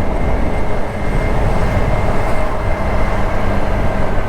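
Riding noise on a Honda Activa scooter: steady wind rushing over the microphone with the scooter's engine humming evenly at cruising speed.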